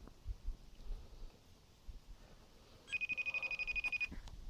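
Phone's outgoing ringing tone for a call: a high, rapidly pulsing tone lasting about a second, near the end. The call is going unanswered.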